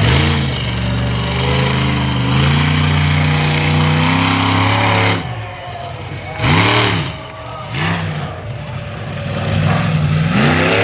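Monster truck engine running hard at high revs for about five seconds, then dropping off. It then revs up and down in two short blips, and climbs again near the end.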